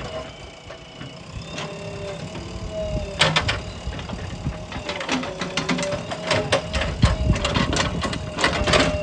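Diesel engine of a JCB earth-moving machine running, with a steady whine and repeated sharp knocks and clanks, busiest in the second half.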